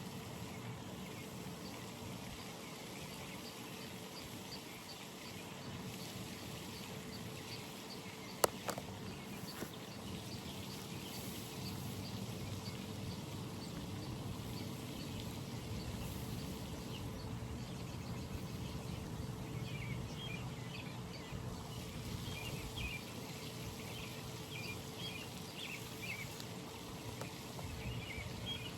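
Outdoor pond ambience: a steady background hiss with water trickling, and a faint, even run of high ticking chirps in the first third. A single sharp click comes about eight seconds in, and small birds chirp repeatedly in the last third.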